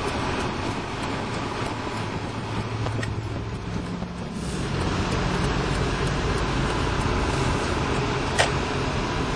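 Car engine and road noise heard from inside the cabin while driving, a steady low hum whose engine note steps up a little about halfway through. A single sharp click near the end.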